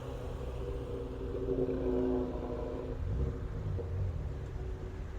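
Car engine running, a steady drone that shifts to a lower pitch about three seconds in.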